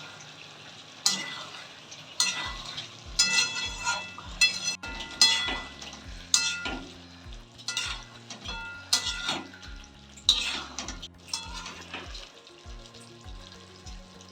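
A spoon scraping and clinking against a pan, about one stroke a second, as chicken curry in mustard oil is stirred over a steady frying sizzle.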